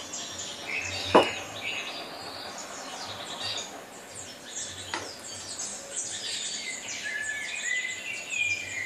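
Small birds chirping repeatedly in short, high calls. Two sharp clicks cut through, a loud one about a second in and a fainter one about five seconds in.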